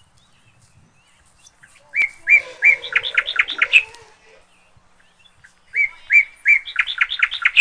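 A songbird singing two song phrases of about two seconds each. Each phrase opens with a few separate notes and speeds into a quick run of notes.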